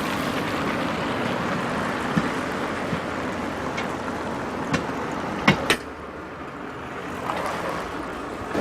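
Steady road and engine noise from a moving car picked up by a dashcam, with a few sharp knocks, the loudest two close together about five and a half seconds in.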